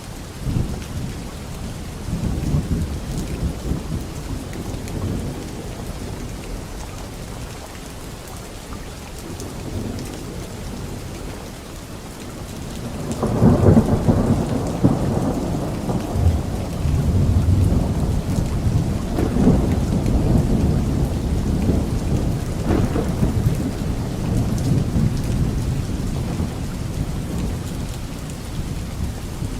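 Thunderstorm: steady rain with rolling thunder. A louder clap breaks about halfway through and rumbles on in waves until near the end.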